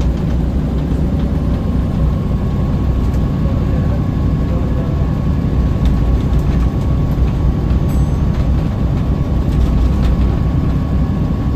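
Scania L94UB bus running, heard from on board: a steady low diesel drone with a faint steady whine above it.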